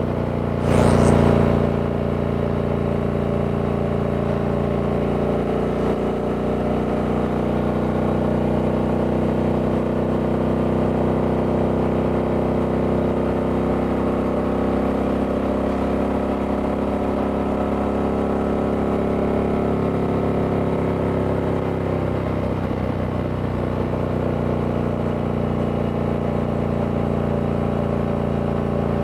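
Harley-Davidson Sportster S's liquid-cooled Revolution Max 1250T V-twin running through its stock exhaust at a nearly steady engine speed, with a brief louder burst of noise about a second in.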